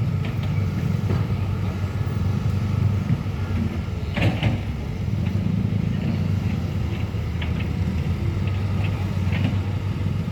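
A heavy engine running steadily with a low rumble, with a single knock about four seconds in.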